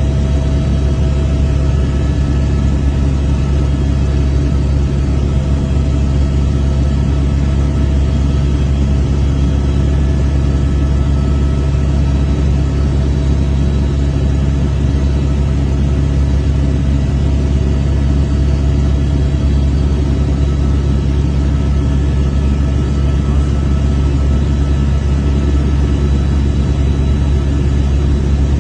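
Glacial lake outburst flood torrent: a loud, steady, deep rumble of rushing floodwater that does not let up.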